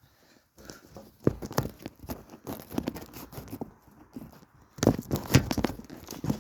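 Irregular knocks, scrapes and rustling of objects being handled and moved, in two busy stretches with a quieter spell in between.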